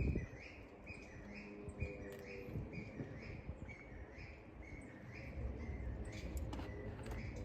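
A bird calling a steady series of short chirps, about two a second, with a few faint clicks and low handling noises near the end.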